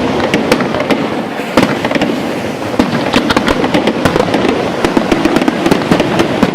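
Fireworks going off without a break: dense rapid crackling with many sharp bangs.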